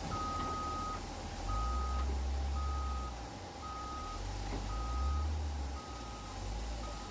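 Heavy vehicle's reversing alarm beeping, about one high beep a second, over a low truck engine rumble that swells twice.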